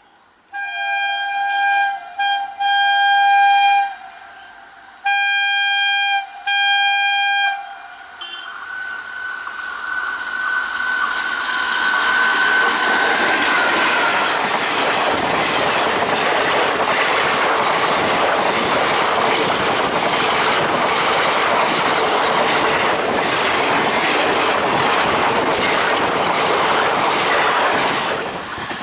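Electric multiple-unit local train sounding its horn in a series of blasts, three then two, before a long high whine, then passing close by with a loud, steady wheel rumble and clickety-clack on the rails. The rumble cuts off sharply near the end.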